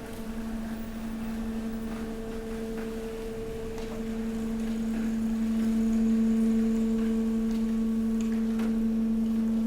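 Hydraulic waste compactor's pump unit running with a steady hum. It grows louder over the first several seconds, with a few faint ticks and creaks on top.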